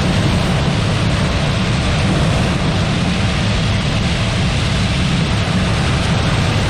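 Claas Lexion 740 combine harvester running steadily, a constant loud drone of engine and machinery with no change in pitch.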